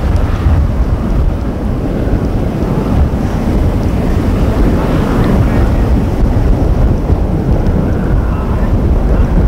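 Steady, loud low rumbling noise of storm wind buffeting the microphone.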